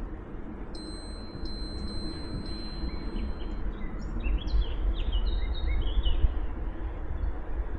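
A small songbird sings a short, quick run of chirps about halfway through, over a steady low rumble. A thin, high, steady tone sounds for about three seconds before the song.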